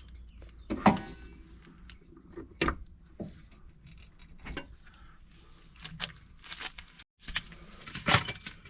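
Scattered metallic clinks and knocks of suspension parts and hand tools being handled, the clearest about a second in, near three seconds and near the end.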